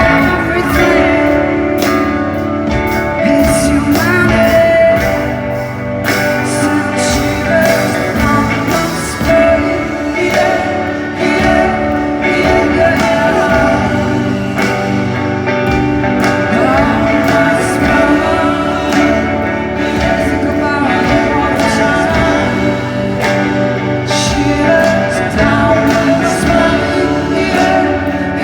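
Live music in a large hall: a slow song with guitar and a sung voice that holds and bends long notes.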